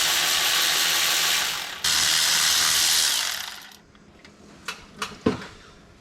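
A handheld power tool runs in two long bursts, each winding down, with a brief stop between them. Near the end come three sharp clicks.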